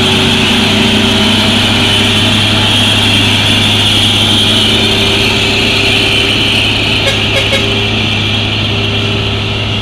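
Truck engine running at a steady pace as the truck climbs the incline, with a constant hiss over it. A few light clicks come about seven seconds in.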